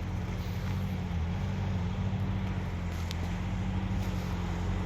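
A steady low engine hum, as of a motor idling evenly, with no revving.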